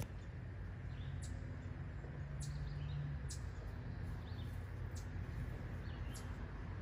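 Small birds giving short, high chirps about once a second over a steady low rumble and hum of outdoor background noise.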